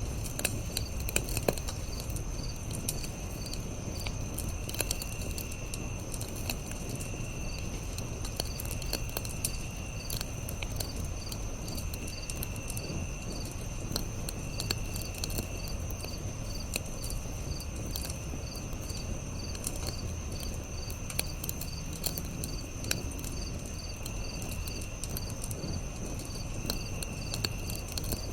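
Campfire crackling with sharp little pops over a low steady noise, under a chorus of crickets and other insects: a continuous high trill, an evenly repeated chirp, and a lower buzz that comes and goes in bouts of about a second.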